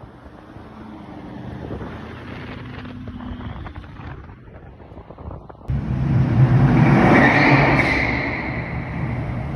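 Mercedes-Benz CLS550's V8 running through its aftermarket exhaust, building gradually, then jumping abruptly much louder a little over halfway through to a loud engine note that peaks and eases off slightly.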